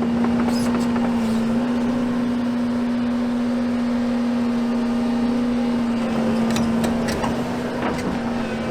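Excavator diesel engine running with a steady, constant hum. Several sharp knocks and clatter from demolition debris come about six to eight seconds in.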